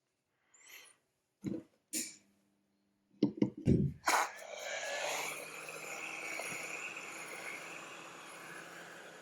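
A few sharp clicks and knocks, then a steady whirring hiss that starts about four seconds in and slowly fades.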